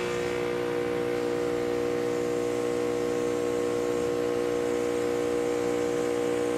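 Breville espresso machine's pump humming steadily as it pushes a second shot of water through the already-used coffee puck.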